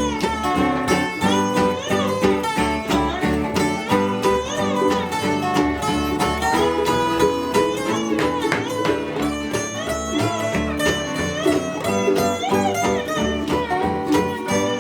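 Bluegrass-style string band playing an instrumental break: a fiddle carries the melody with sliding, wavering notes over strummed acoustic guitar, with a steady beat underneath.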